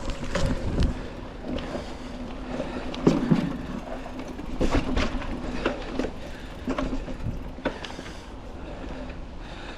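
Mountain bike on tubeless tyres rolling over a rough dirt trail, with a steady rumble of tyres and wind and a series of sharp clunks and rattles as it hits bumps and features, the loudest about three seconds in.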